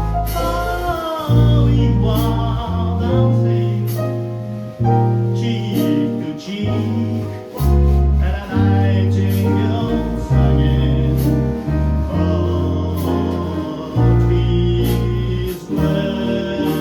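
Live jazz piano and voice performing a song, with held bass notes moving every second or two under the melody.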